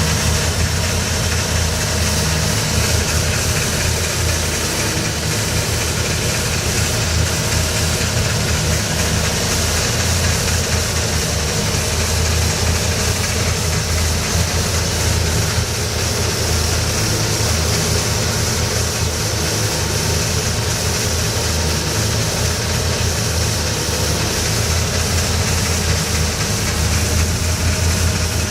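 Boat's twin Crusader 8.1-litre inboard V8 engines idling with a steady, low throbbing rumble.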